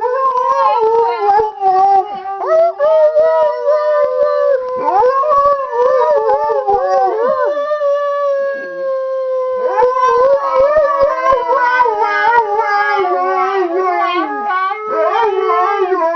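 Several Alaskan huskies howling together in a chorus of long, overlapping, gliding howls, with a short break about nine seconds in before they start up again.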